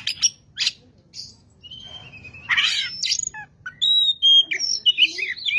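Oriental magpie-robin (kacer) in full song: a varied run of clear whistles, quick sweeping notes and short chirps in phrases with short gaps between them.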